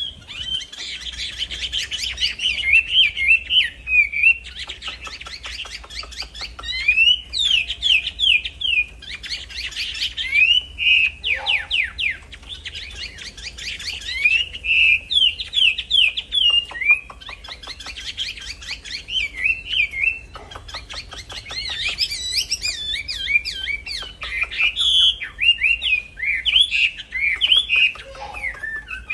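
A wambi songbird singing in full voice, almost without pause: rapid runs of quick chirps and sweeping whistles, repeated in bouts a few seconds long.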